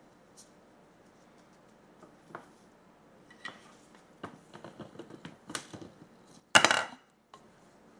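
Kitchen utensils and dishes clinking and clattering in small, irregular knocks, then one loud, brief noisy burst near the end that cuts off suddenly.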